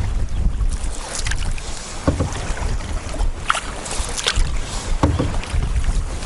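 Canoe paddle strokes splashing in the water, about one a second, with wind rumbling on the microphone.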